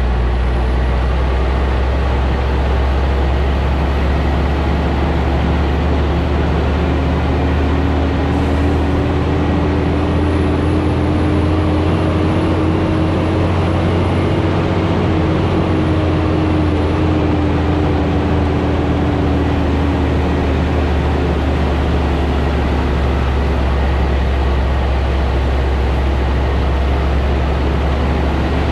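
Scania G440 truck's 13-litre straight-six running steadily under a heavy load on a downhill grade: a deep, continuous drone. Partway through, a tone rises slowly, then eases back down.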